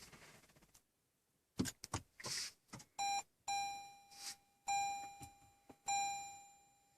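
A car's dashboard warning chime dinging over and over, about once every second, each ding fading away. Before it starts, about three seconds in, there are a few short clicks and knocks.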